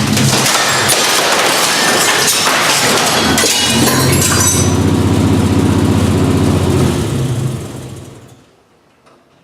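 A motor vehicle's engine running loudly, with crackle and rattle over the low exhaust note. It dies away about eight seconds in.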